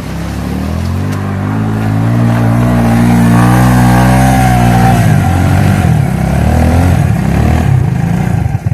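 Suzuki King Quad ATV's single-cylinder engine revving hard as it tries to climb a snowy hill in two-wheel drive. The revs climb over about three seconds and hold high, then drop sharply about five seconds in to lower, uneven revving as the wheels spin.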